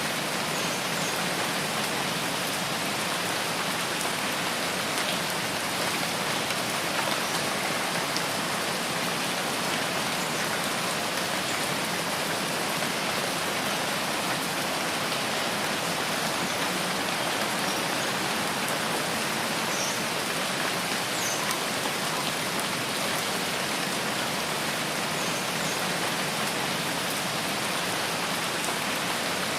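Steady rain falling in a rainforest: an even, unbroken hiss of rain that keeps the same level throughout.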